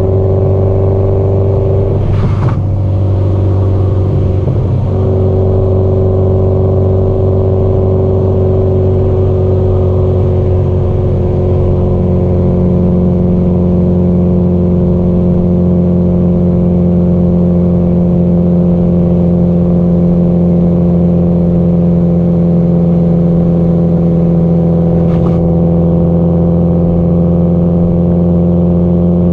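Subaru Impreza GDB-E's turbocharged flat-four engine and exhaust, cruising with an even drone whose pitch sinks slowly. There is a brief click about two seconds in, where the engine note dips and settles, and a fainter click near the end.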